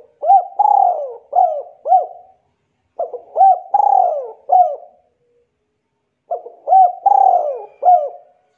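A bird cooing in three repeated phrases of several low notes each, with short pauses between the phrases.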